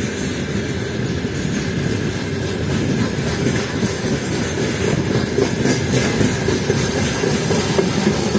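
Freight train rolling through the station, its wagons' wheels clattering steadily over the rails.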